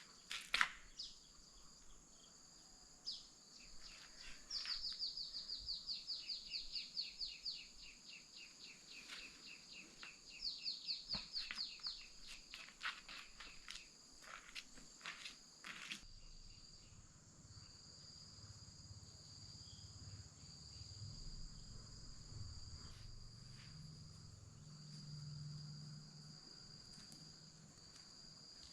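Insects chirring in a steady, faint, high-pitched chorus. Twice in the first half, a rapid run of chirps comes at about five a second. A few faint clicks sound here and there.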